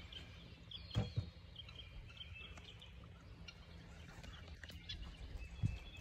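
Birds chirping faintly, with a soft knock about a second in and a fainter one near the end.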